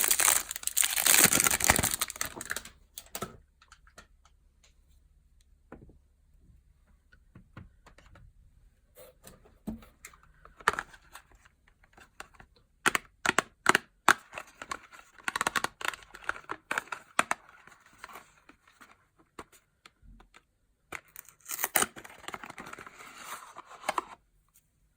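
Soap packaging being crinkled and torn open by hand: loud rustling for the first two seconds, then scattered crackles and handling clicks, with more rustling in the middle and again near the end.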